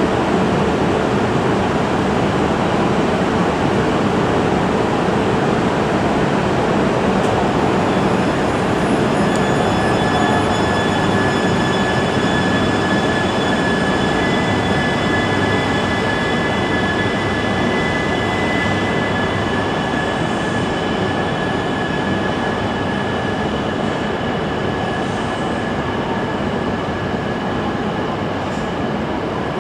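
Shinkansen train running alongside the platform: a loud, steady rush of rail noise. Faint, steady high-pitched whining tones come in about eight seconds in, and the noise eases slightly toward the end.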